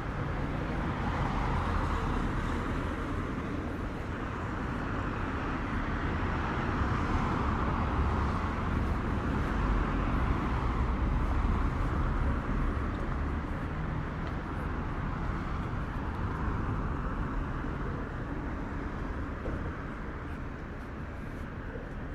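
City street traffic: cars driving past, a steady tyre and engine noise with a low rumble that swells and eases slowly, a little quieter near the end.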